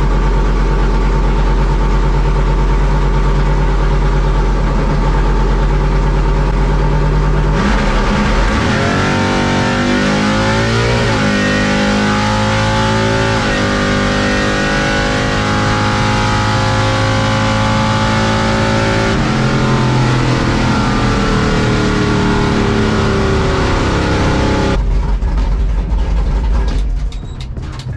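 A drag race car's engine heard from inside the car: running steadily at the start line, then launched at full throttle, climbing in pitch through two gear changes and holding at high revs down the strip. Near the end it drops away.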